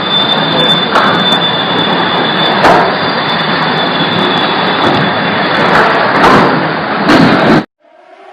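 Loud, steady rush of tornado-force wind, with a thin whistle and sharp clicks and knocks scattered through it. It cuts off suddenly near the end, and a civil defense siren starts winding up, rising in pitch.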